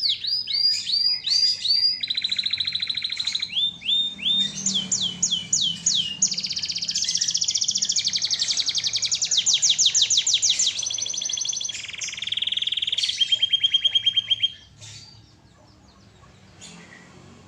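Domestic canary singing in full, lively song: rapid runs of repeated rising sweeps and fast trills, one phrase type after another. The song stops about three seconds before the end.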